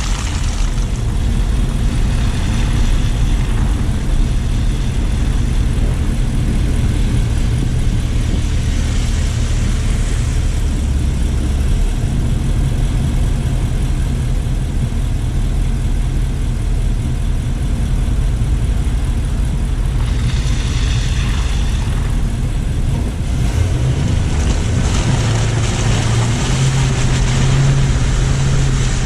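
Car driving on city streets: a steady low rumble of engine and tyre noise with wind buffeting the microphone. The engine note grows louder and rises slightly near the end as the car speeds up.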